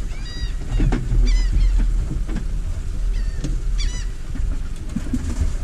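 A bird calling in short, arched, high cries, several at a time in small bunches, over a steady low rumble.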